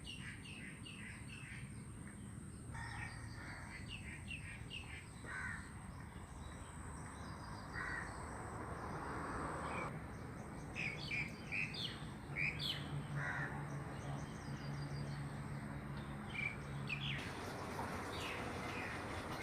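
Morning birdsong: several birds giving short, repeated chirps and calls, over a steady high thin tone, with a low hum joining in for a few seconds in the second half.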